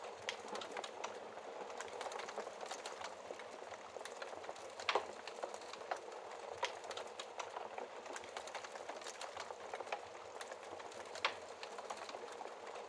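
Wood fire crackling in a fireplace: a steady soft hiss of burning with frequent small pops and snaps. The loudest snaps come about five seconds in and near eleven seconds.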